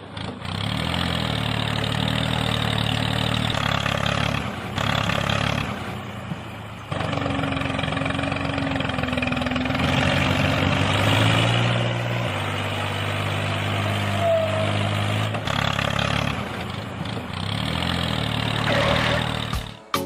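An engine running, its pitch stepping up and down several times between steady stretches.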